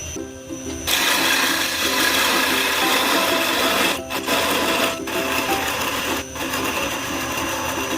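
Wood lathe spinning a goblet blank with a tool or abrasive pressed against the turning wood. A loud, even scraping hiss starts about a second in and breaks off briefly three times in the second half. Background music runs underneath.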